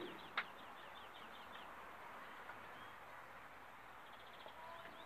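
A sharp knock just after the start, with a small bird's rapid trill of short downward chirps running on until about a second and a half in, over a faint steady outdoor hiss.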